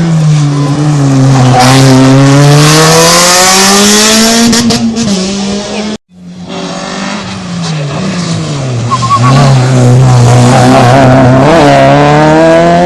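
Rally car engines at a hairpin, with a cut between two passes. In each, the revs drop as the car slows into the bend, then climb again as it accelerates out. During the first pass there is a hiss of tyre squeal.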